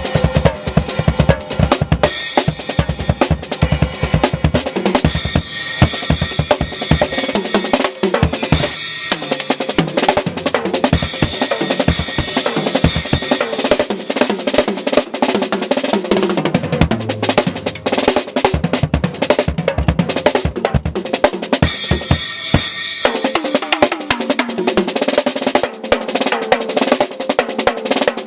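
Acoustic drum kit played in a fast, busy solo: bass drum, snare with rimshots and rolls, and cymbals. A run of tom hits falls in pitch about two-thirds of the way through.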